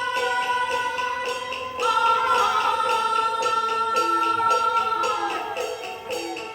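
Beiguan ensemble playing Fulu-style opera music: a held melody line that steps up in pitch about two seconds in, over a steady beat of small metal percussion, about two to three strokes a second.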